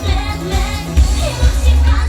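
Live pop music over a PA: a woman singing over a backing track with a heavy, pulsing bass beat.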